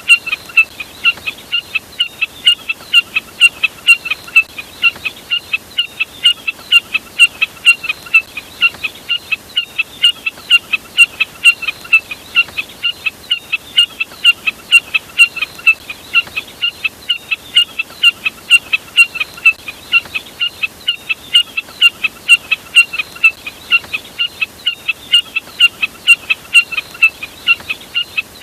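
Looped lure recording of a jack snipe ('burcet') calling: short sharp notes repeated rapidly and evenly, about three a second, without pause.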